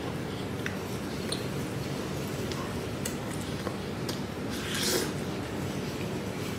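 Close-up eating sounds: wet chewing of soup-soaked stewed beef and pancake, with scattered small clicks and one longer, louder wet sound about five seconds in.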